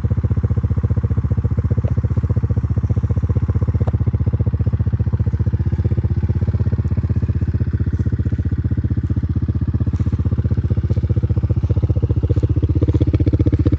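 Small ATV engine, a Kawasaki KFX 90's single-cylinder four-stroke, idling steadily with an even, fast firing rhythm.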